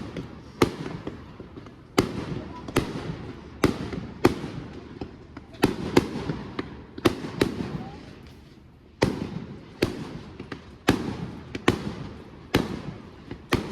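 Fireworks display: a rapid succession of loud bangs from bursting fireworks, about one a second, each trailing off in an echo, with a short lull about eight seconds in.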